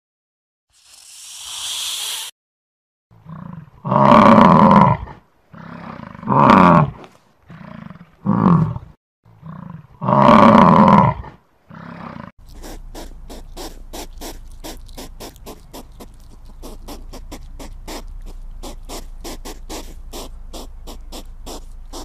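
A snake's hiss, then a series of deep roars from a large animal, four of them loud, followed by a long run of fast, even clicks, about five a second, over a low hum.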